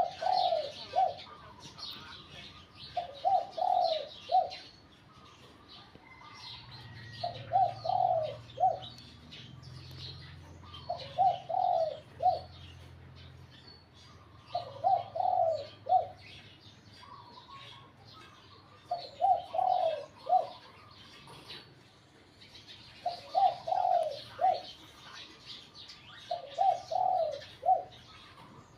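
Spotted dove cooing: a short phrase of three or four notes, repeated about every four seconds, eight times in all. Small birds chirp steadily in the background.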